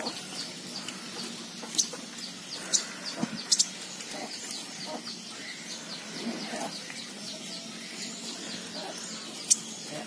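Birds: four short, sharp, high chirps, three in the first four seconds and one near the end, over faint clucking of chickens.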